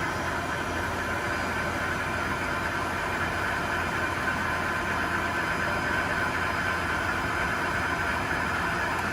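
Hwacheon T130 lathe running at a steady speed: a constant mechanical hum with a steady whine.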